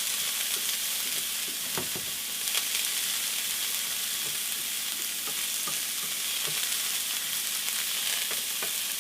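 Onions sizzling in oil in a cast iron skillet as they soften toward translucent, a steady hiss with a few faint clicks from stirring.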